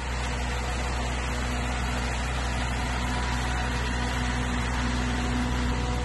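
Steady, unbroken rush of heavy storm rain and wind, with a constant mechanical hum of a few fixed tones underneath.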